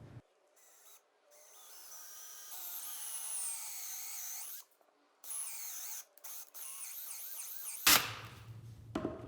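Power drill with a hole saw cutting into a wooden block, its motor whine rising and falling in pitch as it bites, with a few brief stops. A sharp knock near the end.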